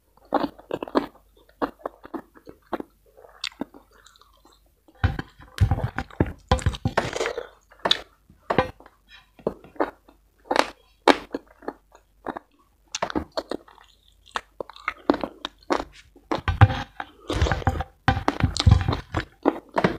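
Close-miked chewing of spicy chicken rica-rica and rice: irregular wet clicks and crunches of a mouth eating, busier about five seconds in and again near the end.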